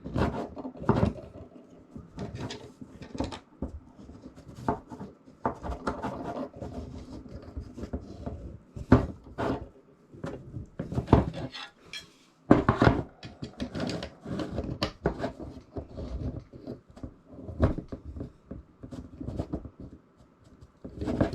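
Irregular clicks, knocks and clinks of small metal and plastic parts being handled and fitted together while a handle is mounted on a battery shuttle box, with rubbing and scraping between the knocks.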